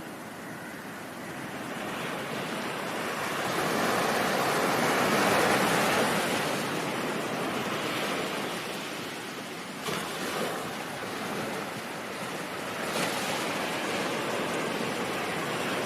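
Ocean surf: a wave builds for a few seconds, peaks and washes back, then two brief sharper splashes follow in the second half.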